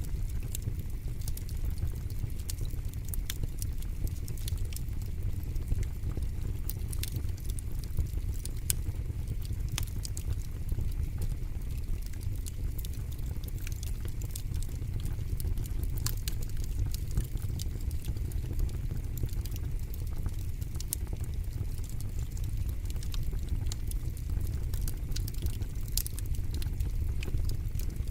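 Wood fire burning in a fire pit: a steady low rumble of flame, with irregular, scattered sharp crackles and pops.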